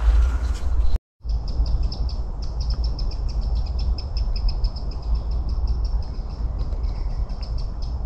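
A small bird singing a long fast run of high repeated chirps over a steady low rumble, starting just after a brief break about a second in.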